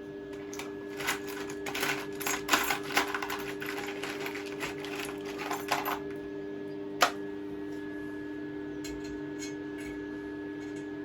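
Stick (arc) welding: the arc crackles and spits in irregular bursts for about five seconds, then stops. A single sharp click follows a second later, over a steady hum.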